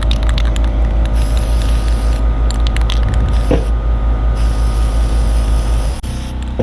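Aerosol spray can hissing in several short bursts onto new brake pad hardware clips, with a few light clicks. A steady low drone runs underneath and cuts off suddenly near the end.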